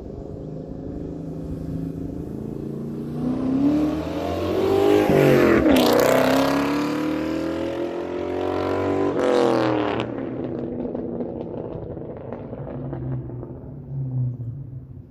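2003 Ford Mustang Mach 1's 4.6-litre V8 through a Carven aftermarket exhaust, accelerating hard with the engine note climbing, loudest through the middle. The pitch swings sharply twice, then the sound drops at about ten seconds in and fades away.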